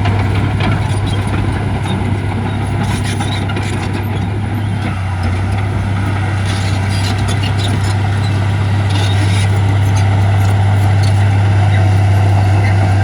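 Heavy diesel earthmoving equipment running steadily: a deep, constant engine drone with scattered clicks and knocks over it, getting slightly louder near the end.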